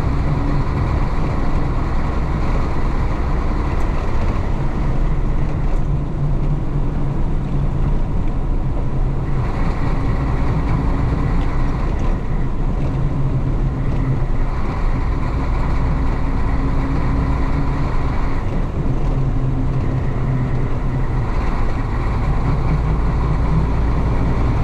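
Isuzu BXD30 bonnet bus's DA640 diesel engine running under way, heard from inside the bus. The engine's pitch shifts up and down several times as the revs change.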